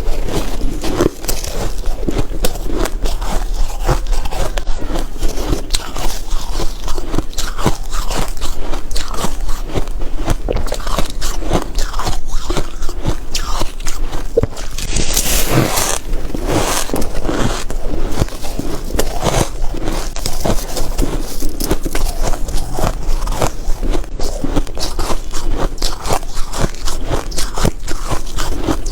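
Close-up biting and chewing of refrozen soft ice, a dense run of sandy, crackly crunches, with a louder bite about halfway through.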